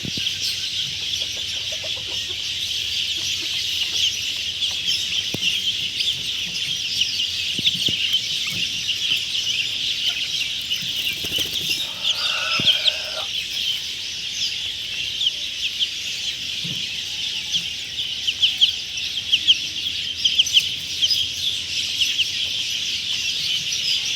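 A pen of birds calling all at once: a dense, continuous chatter of short high chirps, with chicken clucks among them and one longer call a little past halfway.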